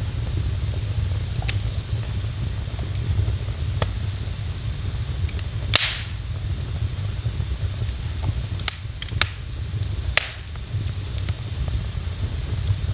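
Wood fire burning in a fireplace, crackling with a few sharp pops over a steady low rumble; the loudest pop comes about halfway through, with two more close together a few seconds later.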